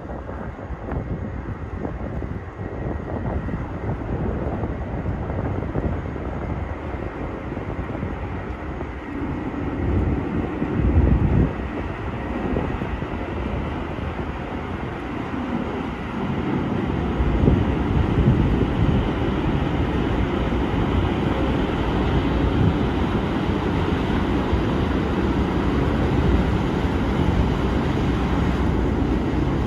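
Steady low rumble of the ferry New Awashima's engines as it comes into port, growing louder about halfway through.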